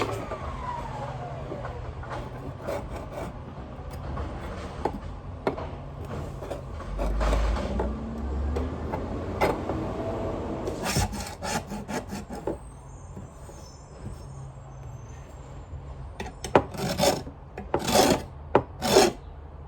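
Repeated rasping, rubbing strokes of hand work on a vacuum cleaner part, irregular, with a run of louder strokes near the end.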